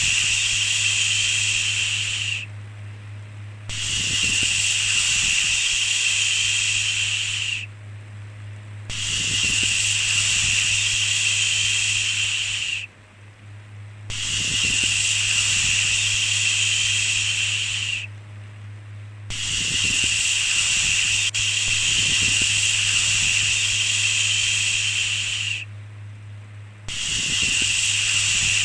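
Long "shhh" shushing sounds, each lasting about four seconds, repeated with short pauses of about a second between them. A steady low hum runs underneath.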